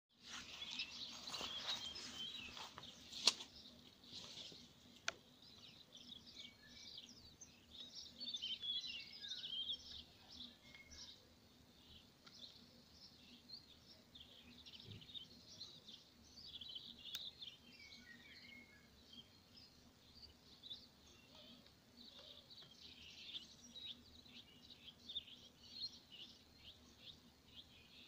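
Small birds chirping and twittering, many short high calls overlapping, busiest in the first few seconds, with a sharp click about three seconds in.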